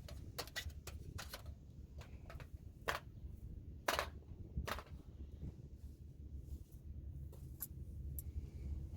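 A series of sharp, irregular clicks and knocks, the loudest about three and four seconds in, over a steady low rumble.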